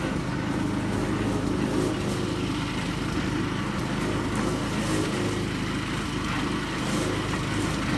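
Motor vehicle engine running steadily, an even hum that doesn't rise or fall.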